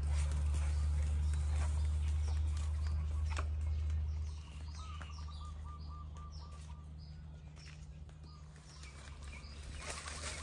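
Small birds chirping and calling, including a short repeated trill in the middle, over a steady low rumble that drops away about four seconds in.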